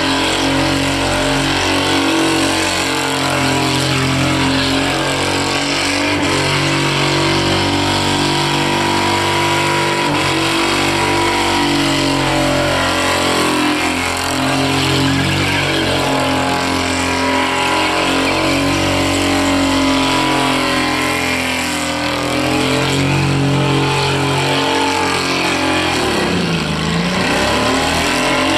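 Holden VN Commodore's 3.8-litre V6 held at high revs through a long burnout, the rear tyres spinning and screeching on the pad, the engine note wavering up and down. Near the end the revs drop sharply and climb straight back.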